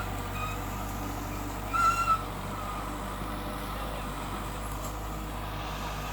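Bulldozer diesel engine running steadily, with a brief high squeal about two seconds in.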